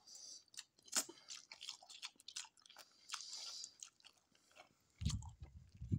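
A person chewing a mouthful of soft instant noodles close to the microphone: small wet mouth clicks and smacks, with a muffled low sound about five seconds in.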